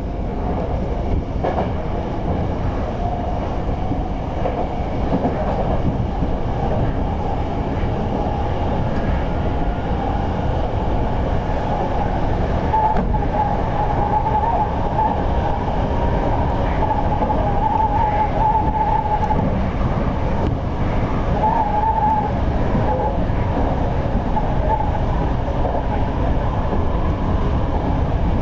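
Toyo Rapid Railway 2000 series electric train running steadily at speed, heard from the driver's cab as a continuous rumble of wheels on rail. A wavering high squeal comes and goes about halfway through, as the train rounds a curve.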